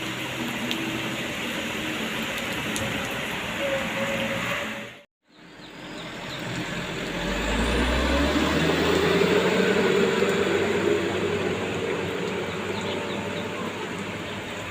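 A heavy truck engine running under a steady hiss of rain. The sound cuts out briefly about five seconds in. Then the engine's low rumble grows louder and stays strong for a few seconds before easing off.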